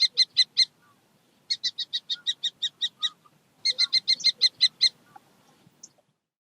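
Falcon calling: three rapid series of sharp, evenly repeated kek notes, about eight a second, the last series ending about five seconds in.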